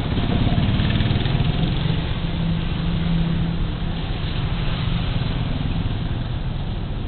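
A Suzuki Burgman Street 125 scooter's single-cylinder engine running while riding, with road and wind noise. The low hum swells over the first few seconds, then eases a little.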